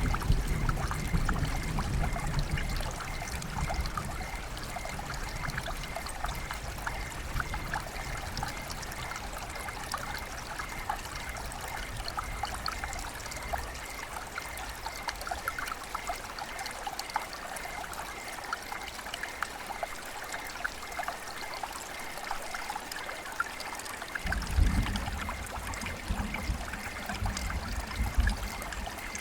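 Water trickling and splashing in a dense patter of fine drips, with a faint steady high tone under it. A low rumble swells at the start and again about 24 seconds in.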